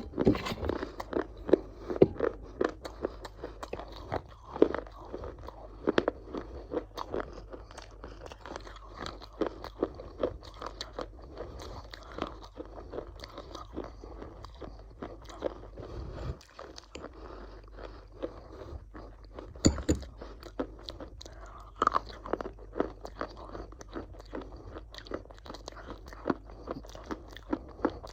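A person biting and chewing crunchy food: a dense run of sharp, irregular crunches.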